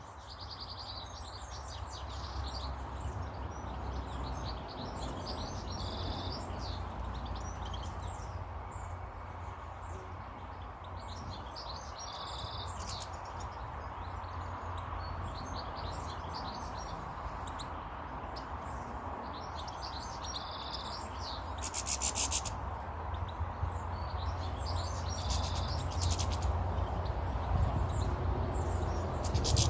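Garden birds chirping and calling, with many short high calls scattered through over a steady low rumble. A brief, loud, rapid rattle comes about 22 seconds in and again near the end.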